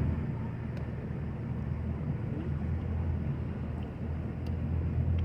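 An engine running steadily at a low, even pitch, with no change in speed.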